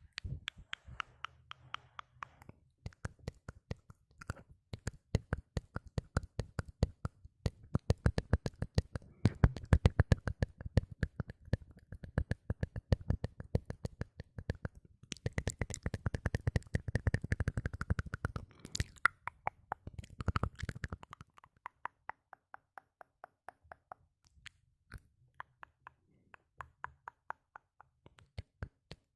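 Close-miked ASMR mouth sounds: a long run of rapid tongue and lip clicks and pops, several a second, thickest and loudest through the middle and thinning out toward the end.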